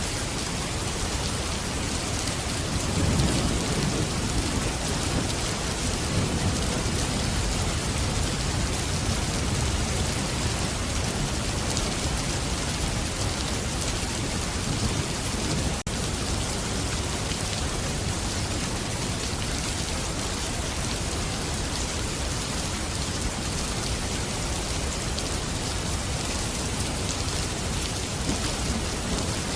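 Steady heavy rain falling, with a low rumble of thunder swelling a few seconds in and fading out.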